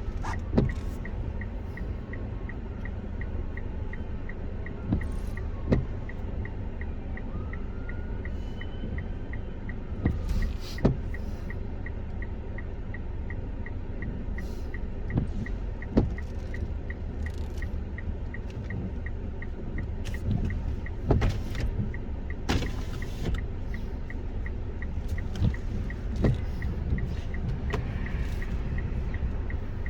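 Car cabin while driving: steady low road and engine rumble, with a faint regular ticking and scattered light knocks.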